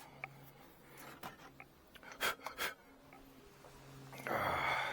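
Sharp clicks and knocks of wooden hive frames being handled, over a faint steady hum of honeybees. A loud breathy rush comes near the end.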